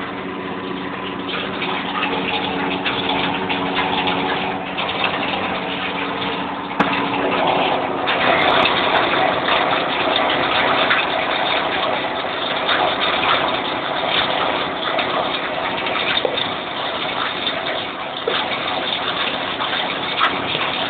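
New Holland TM190 tractor's turbocharged diesel engine running, with the turbo's whistle and rushing air noise over the engine note. The rushing noise grows louder about eight seconds in.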